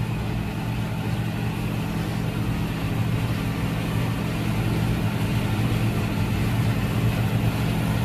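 Tractor engine running steadily while pulling a grain cart, a low even hum that grows slightly louder over the seconds.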